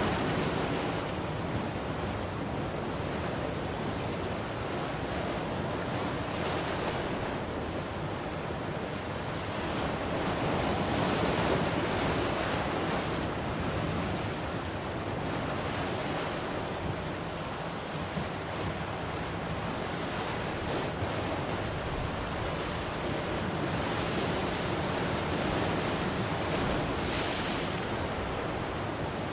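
Ocean surf: waves breaking and washing continuously, swelling and easing every few seconds, with a brief hissing wash near the middle and another near the end. Some wind noise on the microphone.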